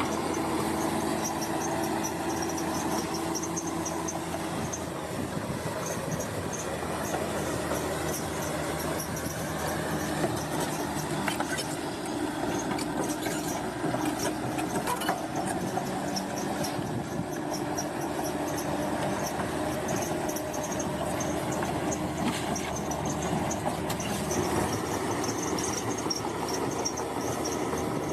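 Crawler bulldozer at work: its diesel engine runs steadily under a high, rhythmically pulsing metallic squeal and clatter from the steel tracks.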